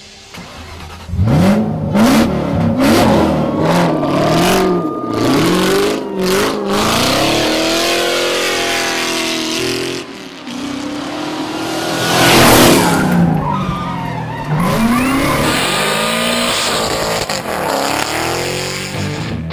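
Engines of drifting vehicles revving hard up and down, several pitches rising and falling over one another, with tyre screech. A loud burst of tyre noise comes about twelve seconds in.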